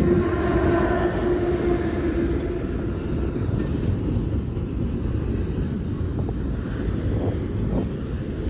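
CSX GE CW44AC diesel locomotive passing close by with a steady whine that fades over the first couple of seconds, giving way to the continuous rumble of double-stack container well cars rolling past on the rails.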